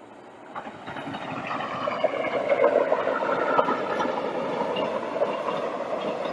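Passenger train passing on the track: the rumble of wheels on rail swells from about half a second in, is loudest two to three seconds in, and stays strong, with scattered clicks over rail joints and a faint tone sliding down in pitch as it goes by.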